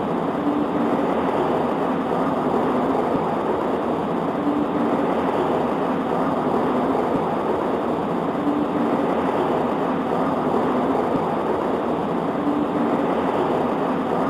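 Steady rain on a window glass, an even, dull rush with no breaks, and a faint low hum that swells about every four seconds.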